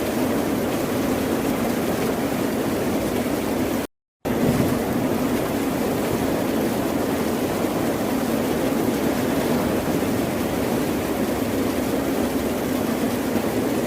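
Steady rushing roar of ocean surf, even in level without distinct breaking swells, cut to silence for a split second about four seconds in.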